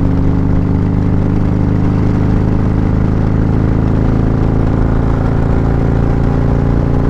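A 2019 Harley-Davidson CVO Street Glide's Milwaukee-Eight 117 V-twin running steadily at speed, heard from the rider's seat. The exhaust goes through Khrome Werks Aggressor headers and slip-on mufflers.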